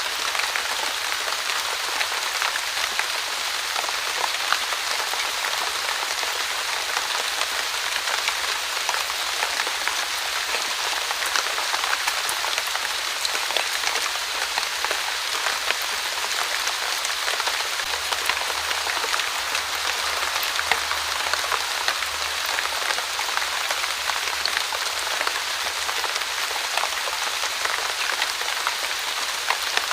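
Steady light drizzle falling on a surface: an even hiss of rain dotted with many small, separate drop ticks, unchanging throughout.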